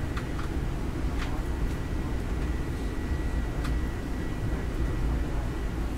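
Electric commuter train heard from inside the passenger car, running through a station at speed: a steady low rumble of wheels on track with a faint steady high tone. A few sharp clicks from rail joints or switches come about a second in and again near four seconds.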